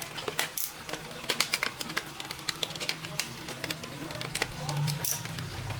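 Irregular sharp clicks and taps of hands working on a laptop's plastic casing, over a low steady hum.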